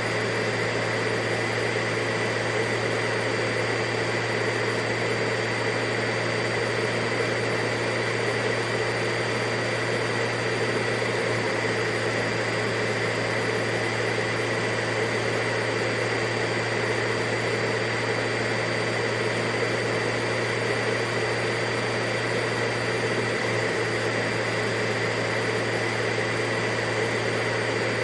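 Vacuum cleaner running steadily, a constant whirring rush with a steady hum under it and a fixed whine above it.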